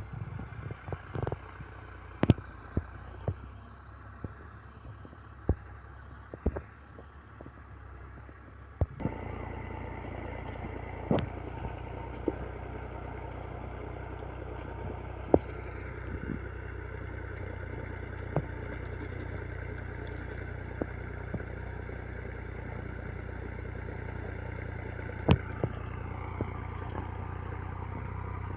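Farm tractor engine running steadily while ploughing, with scattered sharp clanks and knocks on top. The engine gets louder about nine seconds in.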